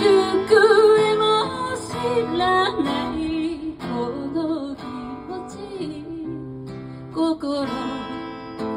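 A woman singing with acoustic guitar accompaniment, her held notes wavering in pitch over the guitar chords.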